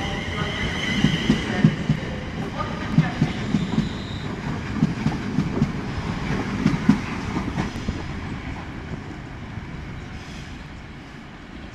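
Electric passenger train's wheels clattering in groups of knocks over the track, with a high whine in the first few seconds. The sound fades steadily as the train moves away.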